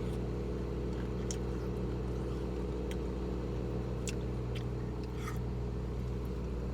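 Car engine idling, a steady low hum heard from inside the cabin, with a few faint clicks.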